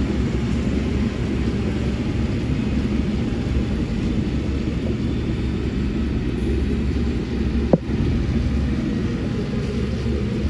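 Heavy diesel earthmoving machinery running with a steady low rumble, with one short sharp knock about three-quarters of the way through.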